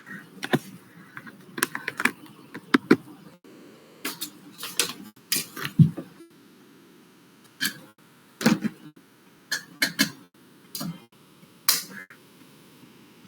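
Irregular clicks and knocks of small objects being handled and moved close to the microphone, about fifteen sharp taps at uneven intervals.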